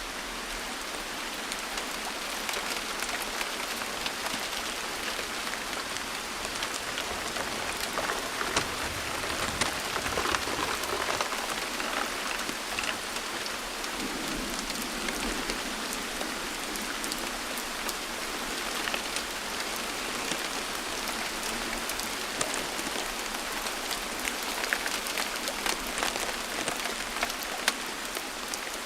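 Steady rain falling, with many individual raindrops ticking close to the microphone.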